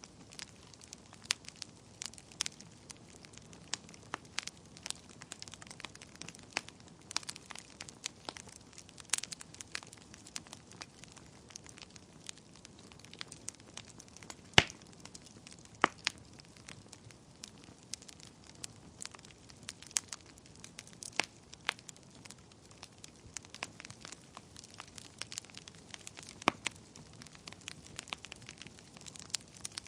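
Wood fire burning in a fireplace: a soft steady hiss with irregular sharp crackles and pops from the burning logs, one pop louder than the rest about halfway through.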